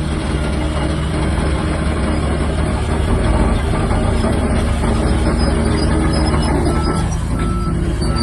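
Crawler bulldozer's diesel engine running steadily while working, with a couple of short high squeals about seven seconds in.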